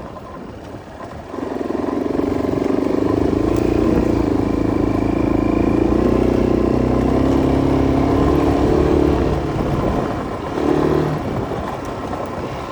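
Enduro motorcycle engine running: it comes up on the throttle about a second and a half in and pulls steadily for around eight seconds. Then it eases off, gives a short blip near the end, and settles lower.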